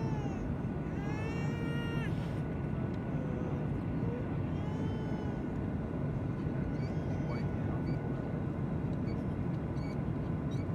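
Steady roar of an airliner's cabin noise during the landing approach, with a faint steady whine under it. A few short, high, rising-and-falling cries sound over it, about one, two and five seconds in.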